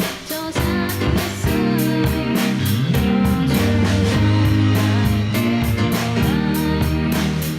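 Band music: keyboard, bass guitar and drums playing together to a steady beat. The sound thins out briefly just after the start, then the full band comes back in.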